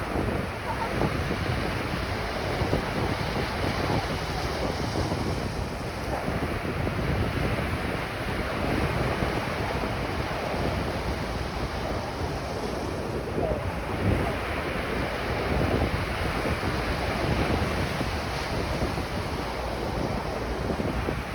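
Ocean surf washing onto a beach in a continuous wash that swells and eases, with wind buffeting the microphone.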